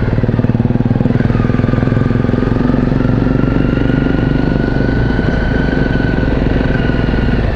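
Single-cylinder four-stroke dual-sport motorcycle engine running steadily at low speed on a gravel forest road, a close, even pulsing note with a faint whine above it that rises slightly.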